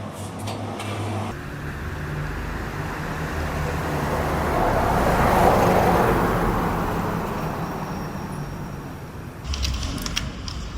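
A car passing by: its road and engine noise swells to a peak about halfway through and then fades away. A few clicks and rattles come near the end.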